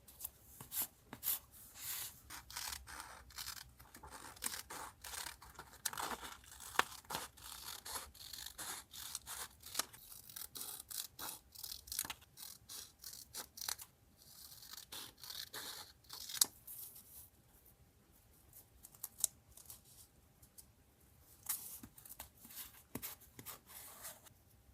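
Paper being handled close up: rustling, crinkling and small taps, busiest in the first half and sparser toward the end, with a longer stretch of tearing or rubbing about two-thirds of the way through the first half.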